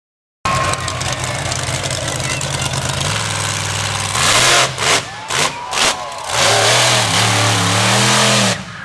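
Monster truck engine starting in abruptly, running steadily, then revved hard several times from about four seconds in, its pitch rising and falling. It drops off suddenly near the end.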